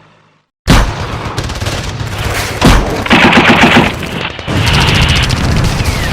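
Battle gunfire sound effect: after a moment of silence, heavy gunfire breaks out abruptly, with rapid machine-gun fire and booms.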